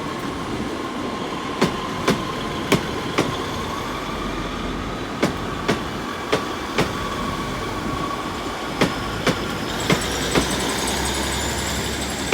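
A Great Western Railway passenger train pulling out of the station: its wheels click over rail joints in pairs as each bogie passes, over a steady running hum. A faint high whine rises near the end.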